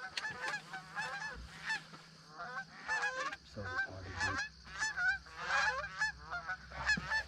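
A flock of Canada geese honking, many short overlapping honks in quick, irregular succession.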